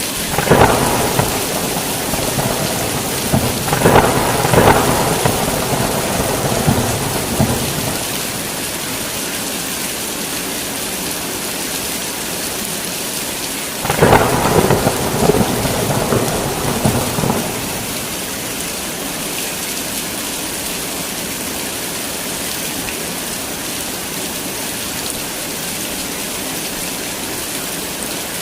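Heavy rain falling steadily, with thunder in two rolls: a crack and rumble right at the start that carries on for about eight seconds, and another about fourteen seconds in that lasts about three seconds. After that, rain alone.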